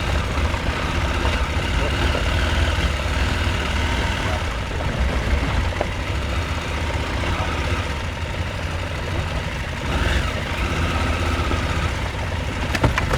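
Husqvarna Norden 901's parallel-twin engine running steadily at low revs during off-road riding, with a few sharp knocks near the end.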